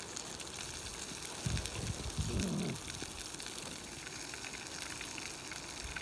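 Sausages sizzling in a pan, a steady crackling hiss, with a few low knocks from handling about one and a half to three seconds in.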